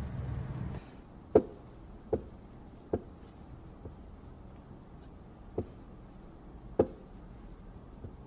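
Pool balls clacking: about five sharp knocks of cue on ball and ball on ball, spaced unevenly a second or so apart.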